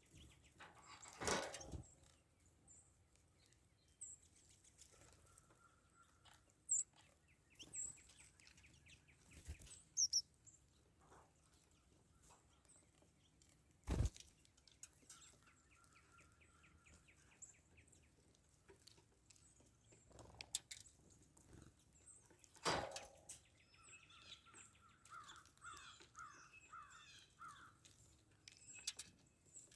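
Small songbirds calling: scattered short high chirps and a few brief trills, against a faint outdoor background, with three sudden knocks or bumps standing out above them.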